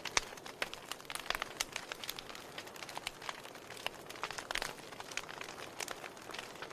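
Wood logs burning in a fireplace: irregular crackles and sharp pops over a soft steady hiss of flame.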